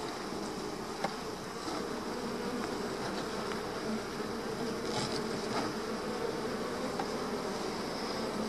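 Honeybee colony buzzing steadily around an opened hive, the dense hum of bees stirred up as frames are lifted out. A light click about a second in.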